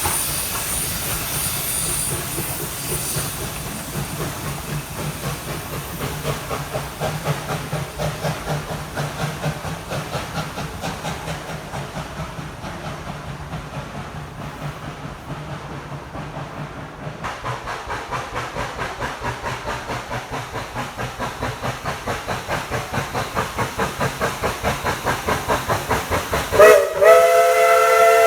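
Narrow-gauge steam locomotive working, steam hissing with a steady rhythm of exhaust chuffs that grow louder over the last ten seconds. Near the end its chime whistle opens with a loud, several-note blast that is held.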